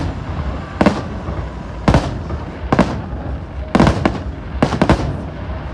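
Fireworks going off: a string of sharp bangs, about one a second and some in quick pairs, over a steady low rumble.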